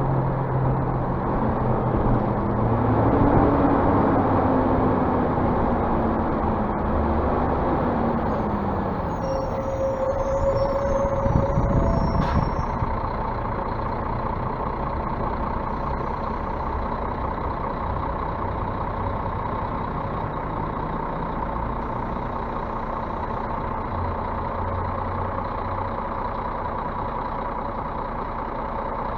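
Scania bus diesel engine running: its pitch rises and falls over the first several seconds, then it settles into a steady drone. A short steady tone about ten seconds in, and a sharp click a couple of seconds later.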